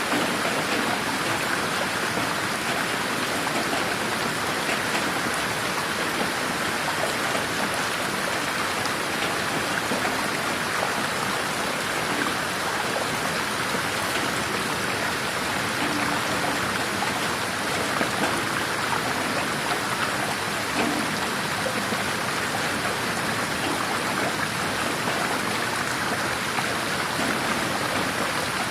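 Steady, dense rain falling in a garden, an even patter of drops with no thunder. It is 8D-processed rain audio, meant to pan around the listener on headphones.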